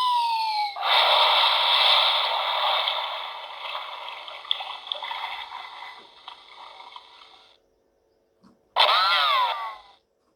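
Electronic sound-effect machine playing its preset effects: a descending whistle that is cut off by a long burst of noise, which fades away over about seven seconds. After a short gap, a brief fast warbling tone sounds near the end.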